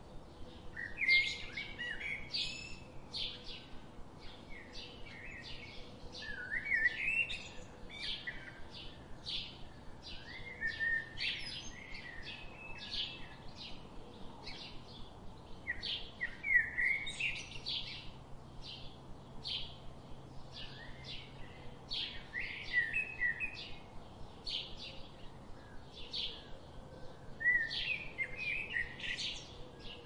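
Birds chirping: a steady run of short, evenly spaced chirps, with a fuller song phrase breaking in every few seconds.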